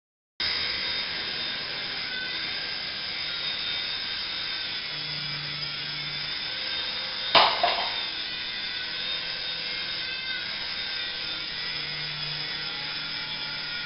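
Toy remote-control helicopter's small electric motors and rotors running with a steady high whine. A single sharp knock about seven seconds in.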